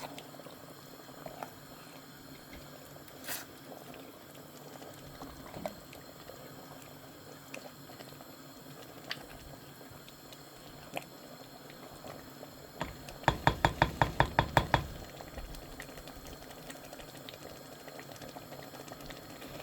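A pot of soup bubbling steadily on the heat, with scattered light clicks. About thirteen seconds in, a quick even run of about ten sharp knocks lasts a second and a half.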